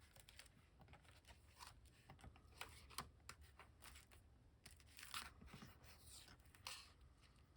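Faint handling of paper and cardstock: soft rustles, taps and scrapes, with a few louder swishes about three, five and seven seconds in.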